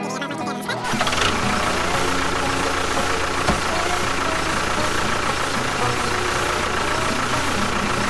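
Background music that stops about a second in, followed by an engine running steadily at idle, with one short knock partway through.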